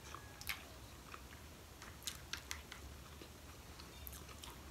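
Faint, wet chewing of maki sushi rolls, with scattered short clicks.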